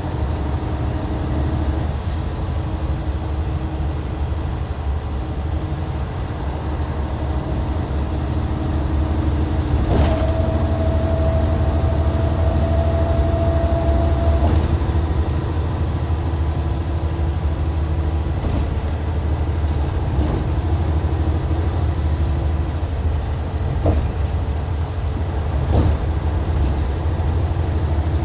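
Hyundai Universe coach's D6CC Powertec 380 six-cylinder diesel running steadily under way, with a deep low drone. A few brief knocks come through, the loudest about ten seconds in, followed by a faint, slightly rising whine for about four seconds.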